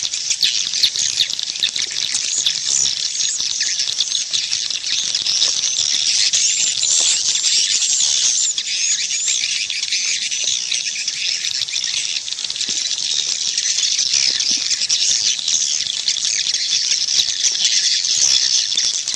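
Dense, high-pitched twittering of many swiftlets, a steady unbroken mass of chirps. It is a swiftlet call track of the kind played to lure the birds into a nesting house.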